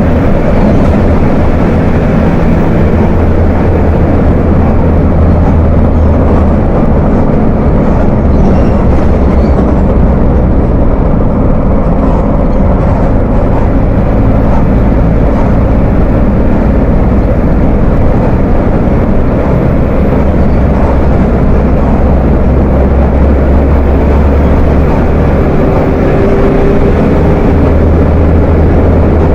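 Volkswagen 17.230 OD bus's diesel engine running with a deep rumble, its low drone shifting in pitch a few times as engine speed changes. A faint steady whine comes in near the end.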